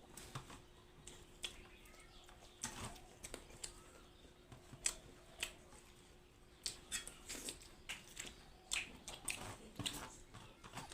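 A person chewing and biting food close to the microphone, with irregular wet clicks and crunches that come thicker near the end.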